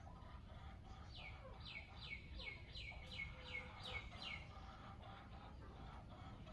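A songbird singing a quick run of about ten descending notes, roughly three a second, from about a second in until past four seconds. Fainter calls from other birds sound around it, over a low steady rumble.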